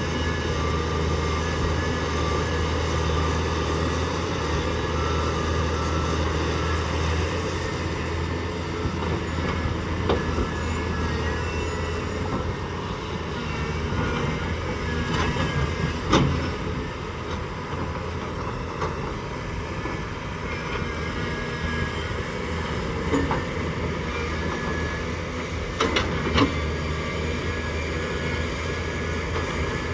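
Volvo excavator's diesel engine running steadily while loading coal, with a few sharp metallic clanks, the loudest about sixteen seconds in.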